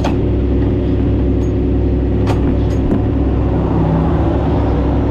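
Heavy truck's diesel engine idling steadily, with a few short sharp clicks about two to three seconds in.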